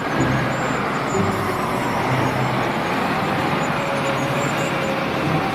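Steady, noisy running of a truck engine, an even rushing rumble that starts abruptly and holds level throughout.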